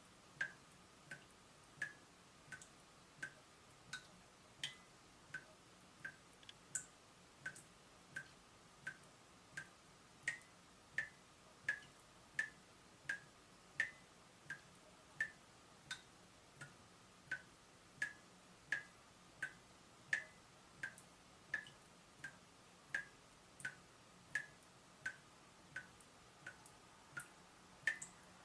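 Leaking tap dripping at a steady, even rate, about three drops every two seconds, each a short, sharp, high plip.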